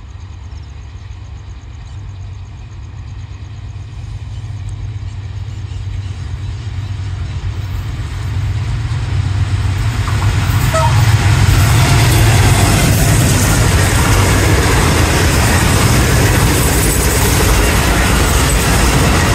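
Passenger train hauled by a Blue Tiger diesel-electric locomotive approaching at close to 100 km/h. The engine and wheel noise builds steadily for about ten seconds into a loud, steady rush as the train comes past.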